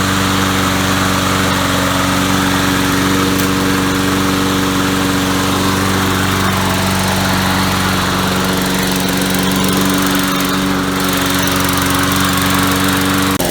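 Lawnmower's small gasoline engine running steadily at a constant speed.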